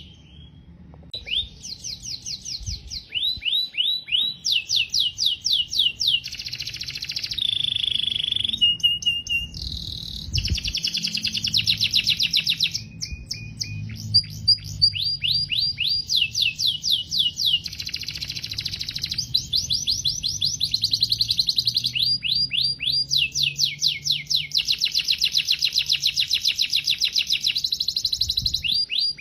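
Domestic canary singing a long continuous song of rapid repeated trills and rolls, switching between different trill types every second or two, with a few short steady whistled notes.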